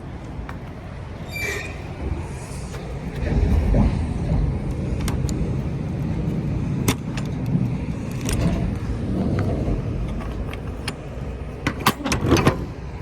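A truck engine running steadily, with scattered sharp metallic clicks and a cluster of louder clanks about twelve seconds in.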